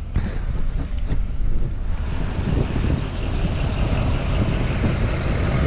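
Pickup truck driving, its engine and road noise running steadily, with a few sharp knocks in the first two seconds.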